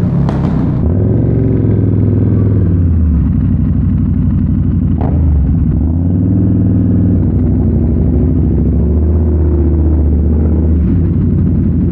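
KTM Super Duke 1290 R's V-twin engine running through an Austin Racing V3 150mm exhaust while riding, its note stepping up and down several times as the throttle and gears change.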